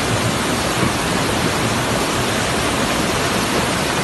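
Floodwater rushing in a steady, loud, even torrent.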